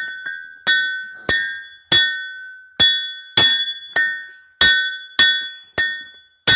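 Blacksmith's hammer striking hot steel on an anvil about eleven times at a steady, slightly uneven pace, each blow followed by the anvil's bright, bell-like ring fading away.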